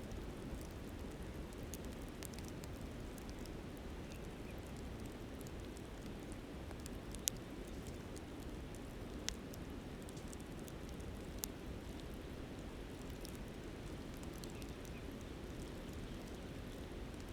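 Wood campfire crackling, with a few sharp pops, the loudest about seven seconds in, over the steady rush of a flowing river.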